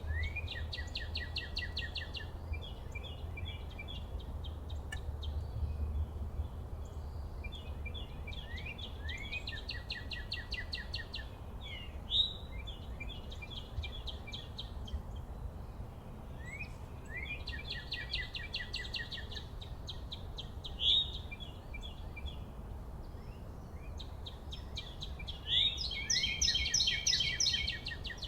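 A songbird singing the same trilled song four times, each phrase a few slurred notes leading into a fast trill of repeated notes, about eight seconds apart, over a steady low outdoor rumble.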